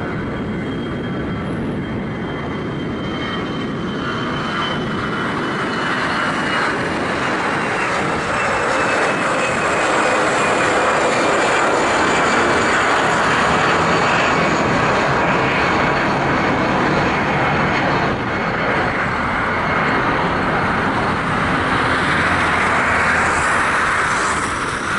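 Airbus A320-214's jet engines at takeoff power, a loud steady rush that grows louder a few seconds in, with a thin high whine that slowly falls in pitch as the airliner goes by.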